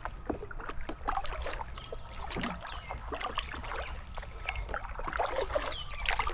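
A kayak being paddled on a river, with water splashing and trickling off the paddle and small knocks, while songbirds chirp and sing with short whistles throughout.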